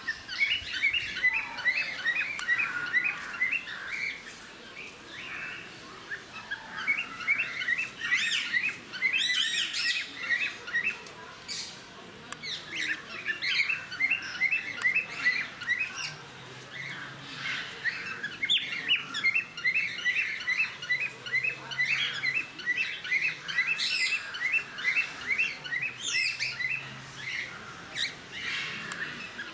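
A flock of small parrots, cockatiels with lovebirds and conures among them, chirping in a dense, continuous chatter of quick repeated chirps, with a few louder squawks breaking through.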